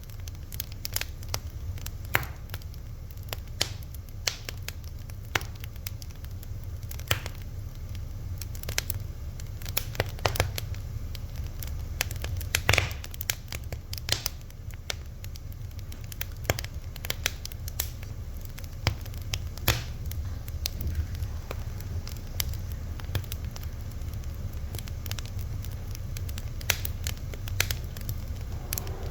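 Fire crackling: irregular sharp pops and snaps, several a second at varying strength, over a steady low rumble.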